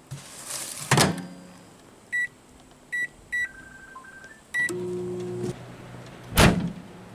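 Microwave oven: the door shuts with a bang about a second in, the keypad beeps several times, and the oven starts up with a steady low hum a little before five seconds. A single loud thump comes near the end.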